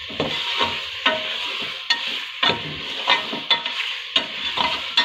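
Boiled mutton pieces and tomato masala sizzling in oil in a pressure cooker, stirred with a metal ladle that scrapes and clinks against the pot about twice a second over a steady frying hiss.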